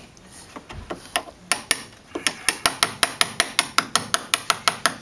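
A hammer tapping a chisel in quick, even strikes, about five a second, cutting a recess in the door for the lockset hardware. After a pause of about a second and a half with only a few faint taps, the strikes start again.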